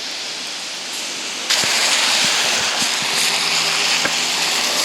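Steady rushing outdoor noise, like wet street traffic and wind, that jumps suddenly louder and brighter about a second and a half in. A faint low hum joins about three seconds in.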